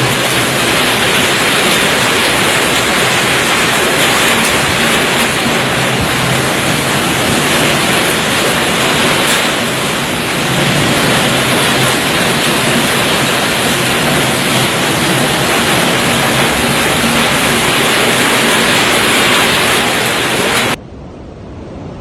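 Typhoon wind and heavy rain: a loud, steady rush of noise that cuts off abruptly near the end.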